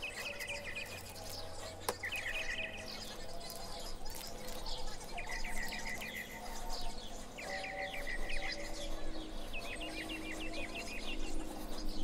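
A small bird singing short, fast chirping trills, repeated every couple of seconds, over soft background music with held notes. A single sharp click sounds about two seconds in.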